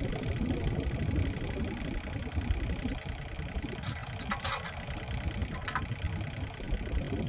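Excavator's diesel engine running steadily with a low rumble while digging out buried irrigation pipe, with brief sharp noises about four seconds in and again near six seconds.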